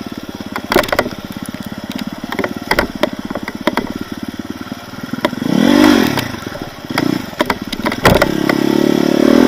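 Off-road motorcycle engine chugging at low revs over rough forest ground, with sharp knocks and clatter from the bike. About halfway through it is revved up and back down once, and near the end it is held at higher revs.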